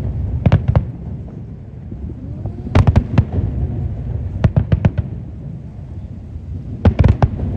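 Aerial fireworks going off: clusters of sharp bangs about every two seconds over a steady low rumble of booms.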